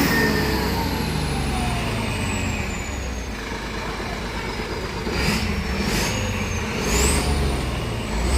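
Hino 500 truck's diesel engine revved through a custom racing exhaust, dropping back from a rev with a high whistle winding down. About five seconds in it is blipped again, with short hissing bursts at roughly one-second intervals and the whistle climbing near the end.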